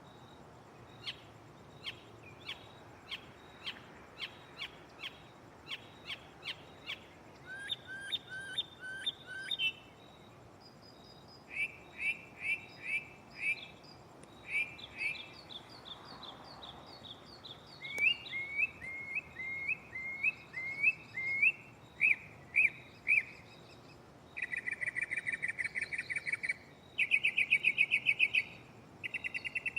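Northern mockingbird singing its mimicked repertoire: short phrases of sharp chirps and slurred whistles, each repeated several times before switching to a new one. Near the end come fast buzzy trills.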